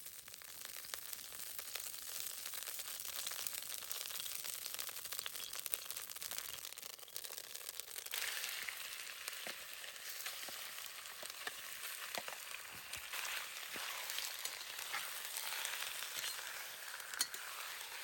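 Food frying in a hot pan: a steady sizzling hiss with scattered small pops and crackles. It comes up at the start and grows brighter about eight seconds in.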